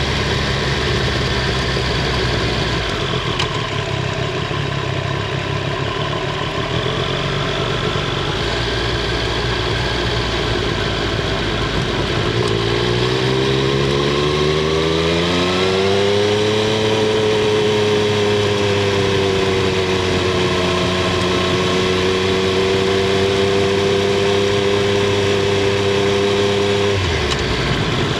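Triumph Street Triple 765 R's three-cylinder engine and exhaust running steadily, then revs rising smoothly over a few seconds about halfway through and holding at a higher steady pitch. The note drops abruptly near the end.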